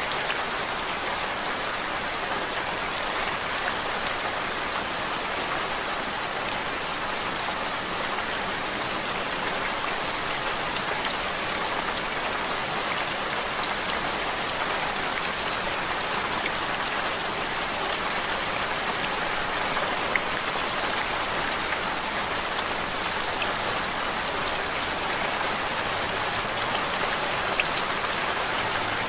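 Steady rain falling: an even hiss with scattered, faint drop taps, unchanging throughout.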